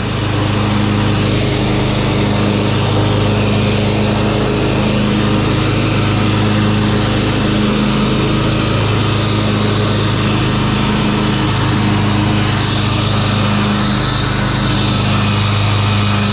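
Craftsman YT4000 riding lawn mower's engine running steadily at close range.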